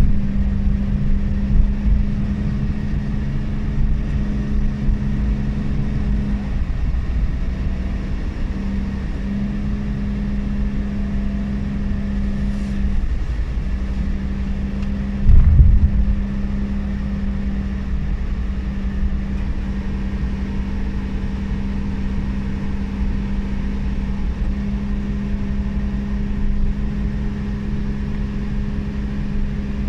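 Suzuki Every Wagon's R06A three-cylinder turbo engine droning steadily at about 2,700 rpm, with road noise, heard from inside the cabin while cruising. About halfway through comes one brief, loud low thump.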